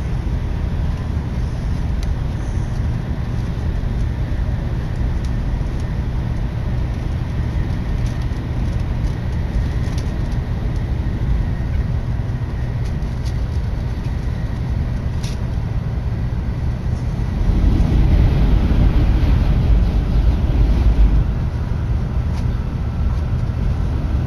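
Interior running noise of a Tokaido Shinkansen at speed: a steady low rumble and rushing noise in the passenger cabin. It grows louder for a few seconds about 17 seconds in, then settles back.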